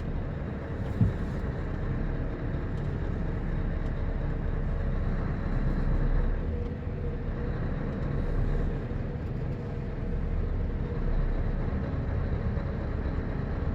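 Heavy truck's diesel engine running steadily at low revs as the truck reverses slowly, with a single knock about a second in.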